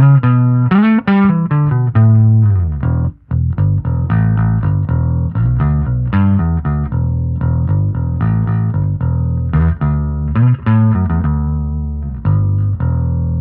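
2002 Gibson Thunderbird electric bass with Lollar T-Bird pickups and Cobalt flatwound strings, played through an amp with a Broughton high/low-pass filter pedal switched on: a run of plucked bass notes with a short slide about a second in and a brief gap about three seconds in.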